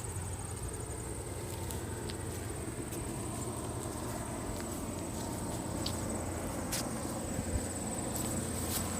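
An insect trilling steadily at a high pitch, over a low rumble, with a few faint clicks.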